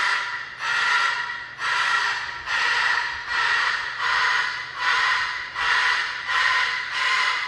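Loud rhythmic breathing, about one noisy breath a second, each breath carrying a whistling tone.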